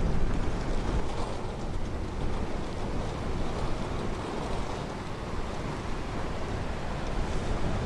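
Ocean surf washing onto a beach, a steady rushing wash that is a little louder in the first second.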